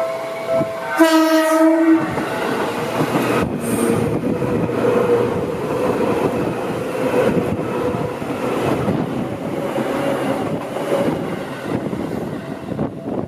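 Level crossing warning bell ringing, then a train horn sounds for about a second, and an electric commuter train passes through the crossing slowly, wheels clattering over the rail joints; the crossing bell rings clearly again near the end as the train clears.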